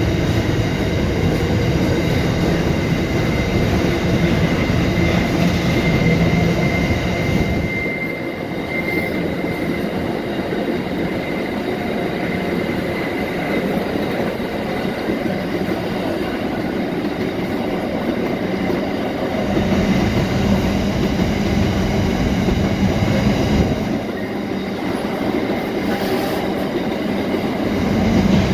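Long empty coal train rolling past, with a steady rumble and clatter of wagons on the rails. A thin, high wheel squeal comes and goes around eight seconds in.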